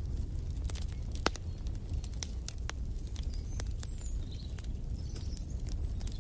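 Wood fire crackling in a fireplace: irregular sharp pops and snaps over a steady low rumble of the flames. A few faint, short, high bird chirps come in past the middle.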